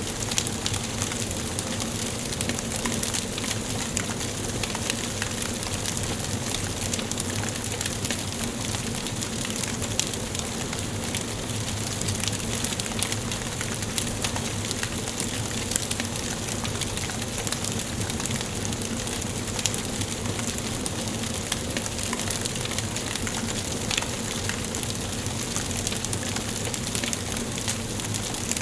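Wood fire burning in a fireplace: a steady hiss with frequent small crackles and occasional sharper pops.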